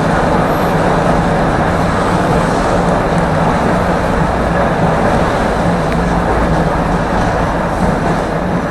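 Tram running along the line, heard from inside the car: a steady rumble of wheels on rails with a steady low hum.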